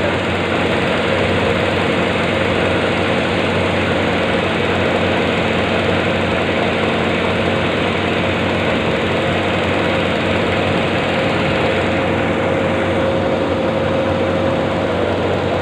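Machinery running steadily in a diesel workshop, a constant mechanical drone with a steady hum tone that does not change.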